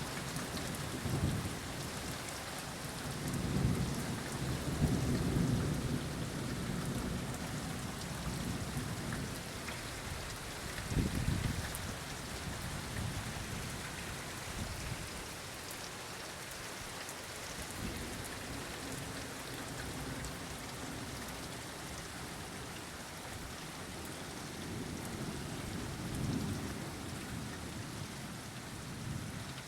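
Steady rain falling, with low thunder rumbling several times; the loudest rolls come a few seconds in and again near the middle, and a weaker one near the end.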